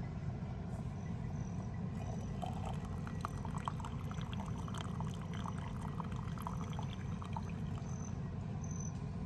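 Hot water being poured into a collapsible pour-over coffee dripper, with small trickles and splashes between about two and seven seconds in, over a steady low rumble.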